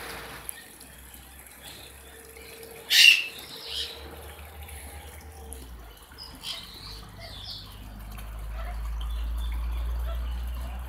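Birds calling from an aviary: one loud, sharp call about three seconds in, then a few fainter calls around four, six and a half and seven and a half seconds. A low rumble swells near the end.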